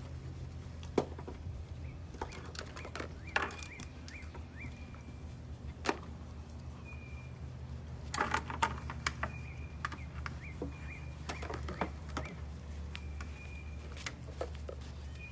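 Small birds chirping in short, slightly falling chirps, repeated every second or two over a steady low hum. Scattered sharp clicks and knocks, the loudest events, come and go, with a cluster about eight seconds in.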